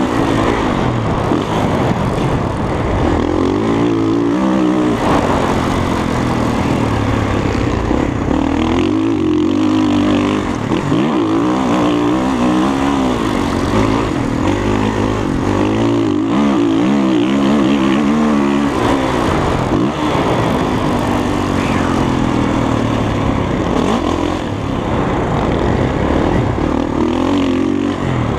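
Dirt bike engine revving up and down again and again as it is ridden, its pitch rising and falling with the throttle and gear changes.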